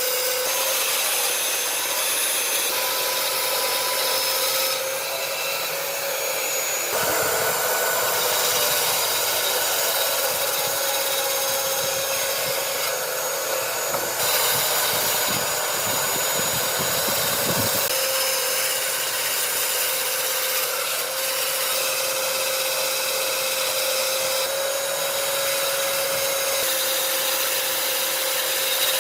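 Electric power tool running on wood with a steady whine and a hiss of cutting or abrading; its sound shifts a few times as the work goes on.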